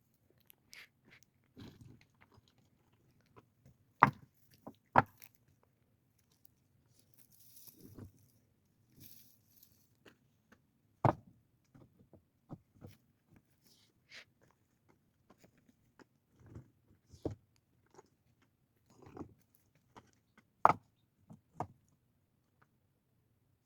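Irregular sharp knocks, clicks and crunches of hands-on work, with five or so louder hard knocks spread through it.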